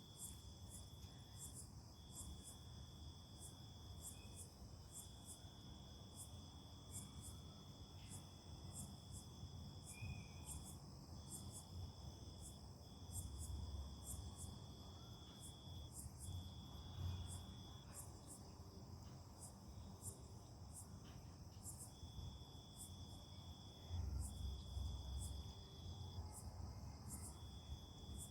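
Crickets and other night insects calling: a steady high trill in long stretches with short breaks, and above it a separate chirp repeating at an even pace. A faint low rumble swells now and then underneath.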